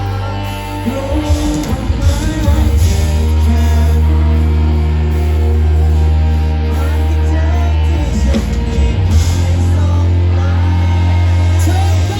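Live rock band playing through a loud PA, with a sung lead vocal over bass, guitars and drums.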